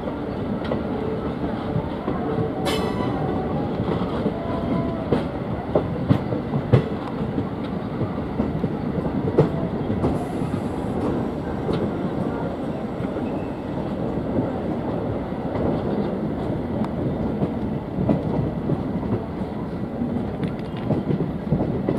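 Diesel-electric multiple unit (DEMU) train running along the track, a steady rumble with the wheels knocking over rail joints.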